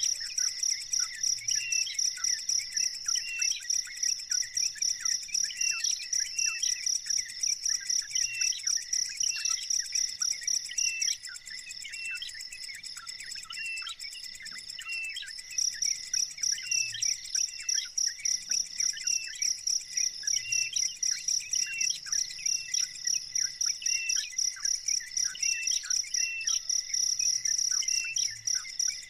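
A high, rapidly pulsing insect trill like a cricket's, which stops about 11 seconds in and comes back about four seconds later, with short bird chirps repeating roughly once a second.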